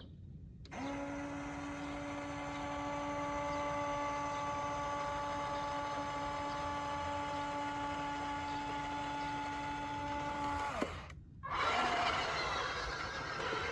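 Small electric motor of a radio-controlled model running with a steady whine for about ten seconds, then winding down in pitch and stopping. About a second later a rougher, noisier mechanical sound starts.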